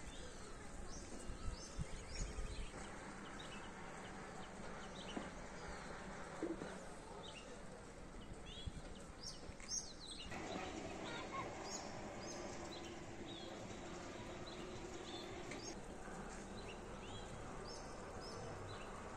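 Small birds chirping in short repeated calls against a steady outdoor background hum, with low rumbling in the first few seconds.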